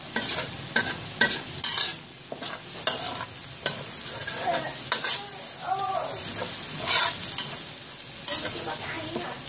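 Minced garlic sizzling in hot oil in a wok. A spatula scrapes and knocks across the pan at an uneven pace, about once or twice a second.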